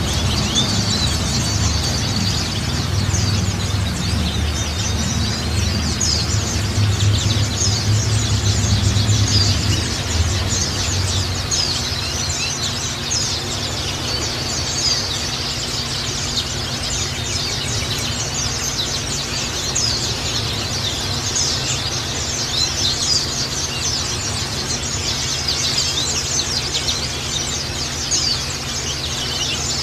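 A flock of white-eyes (pleci) chattering and singing in dense, rapid high chirps and short trills, over a steady low hum that eases off about ten seconds in.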